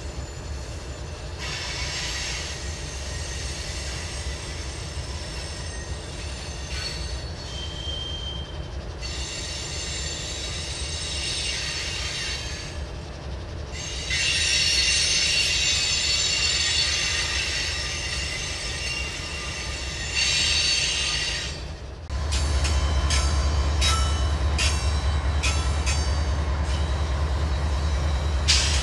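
Freight car wheels squealing against the rails, the squeal rising and fading in waves over a low rumble. About two-thirds of the way in this gives way to a louder, steady diesel locomotive rumble from a GE ES44AC leading a freight, with a quick run of clicks as its wheels cross rail joints.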